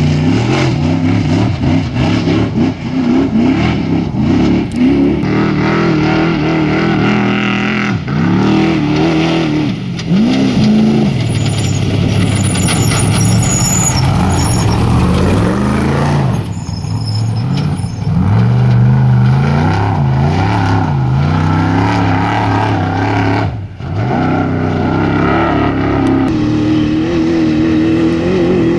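Off-road race vehicle engines revving hard as they go by, the pitch rising and falling again and again, with a few short dips where the sound drops away.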